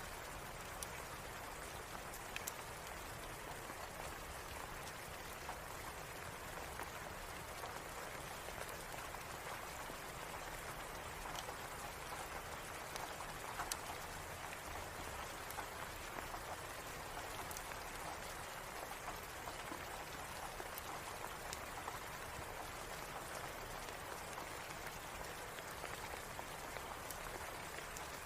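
Steady rain, an even hiss, with scattered faint sharp clicks throughout.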